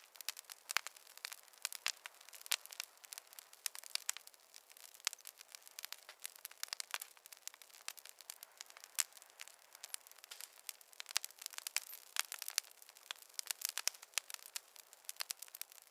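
Wood fire crackling in a fireplace: a dense, irregular run of sharp pops and snaps, with no low rumble beneath them.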